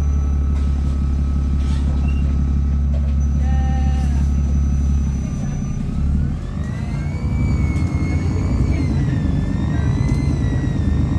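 Bus engine running with a heavy low drone, carried as engine feedback through the on-board speaker. About six seconds in the drone breaks off and a higher whine rises and wavers.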